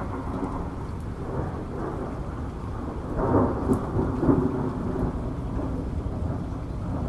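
Steady rain with a roll of thunder that swells about three seconds in and rumbles on for a second or two before easing back under the rain.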